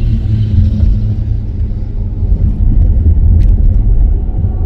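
Dodge Grand Caravan minivan driving, a steady low rumble of road and engine noise heard from inside the cabin.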